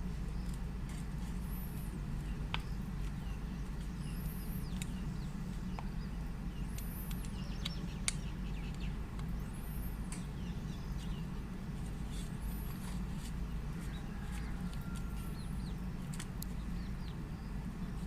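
Steady low hum with small high-pitched chirps, like a bird's, every few seconds, and a few sharp clicks, the loudest about eight seconds in.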